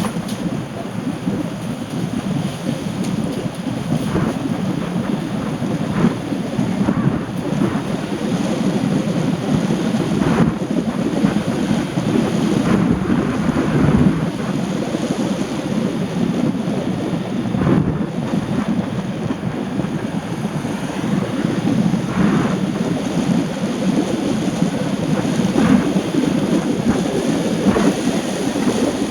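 Steady low rumbling noise of rain and wind, broken by a few short sharp knocks spread through it.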